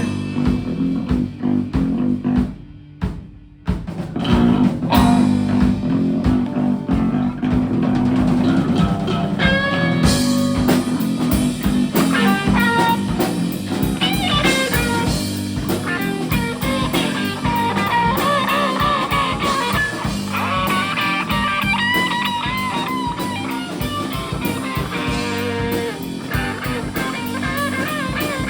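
Live rock band playing an instrumental passage on electric guitar, bass and drum kit. The band drops out briefly about three seconds in, then comes back in. From about ten seconds in, a lead guitar line with wavering, bent notes plays over the rhythm.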